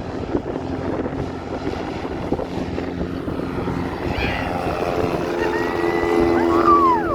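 Floatplane's propeller engine running with a steady drone. Near the end a high whistle-like tone holds, then drops, alongside a falling glide.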